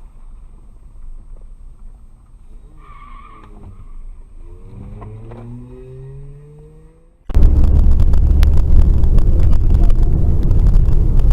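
A vehicle engine speeding up, its pitch rising over a few seconds. About seven seconds in, it gives way abruptly to loud, steady road and wind noise from a moving car.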